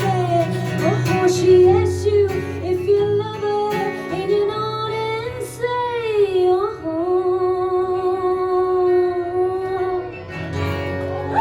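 A woman singing a live song's closing vocal line over guitar, the melody bending up and down and then settling into one long held note for about three seconds before the music dies away near the end.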